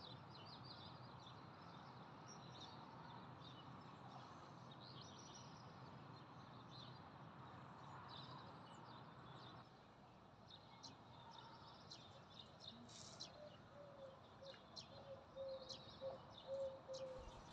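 Faint bird chirps, short and scattered, over a quiet background hiss, with a lower run of short notes near the end.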